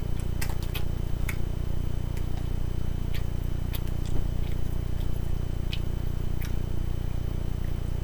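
Close-up eating sounds: chewing on chicken wings, with scattered sharp mouth clicks and smacks over a steady low hum.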